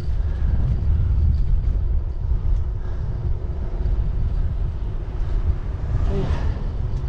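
Wind rumbling on the microphone with road noise from a bicycle ride, a steady low roar. About six seconds in, a brief louder swell with a hiss passes through.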